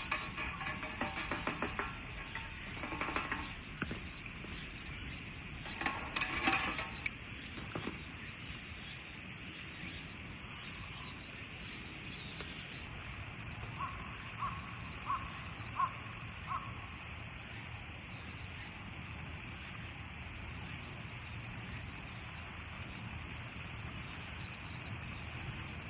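Autumn crickets chirping in a steady, high, continuous trill. Scattered clicks and crackles come through in the first eight seconds, and a run of five short pips comes around the middle.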